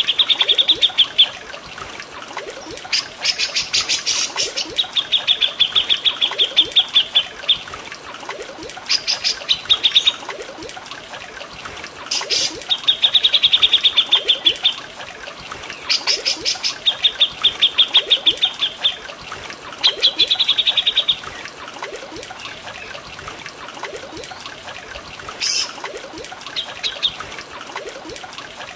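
Songs of a cucak jenggot (grey-cheeked bulbul) and a cililin (chestnut-winged babbler) mixed over trickling water: rapid high trills repeated in runs of one to two seconds, with louder, sharper calls breaking in between.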